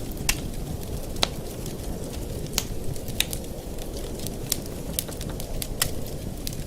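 Wood fire burning in a fireplace: a steady low rumble of flames with irregular sharp crackles and pops, roughly one or two a second.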